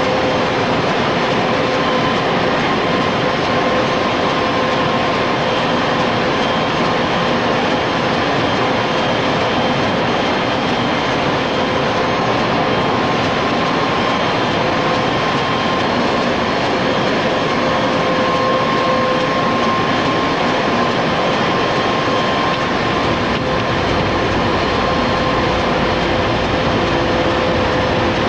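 Panavia Tornado GR1 jet running: a steady, loud rush of noise with a constant high whine.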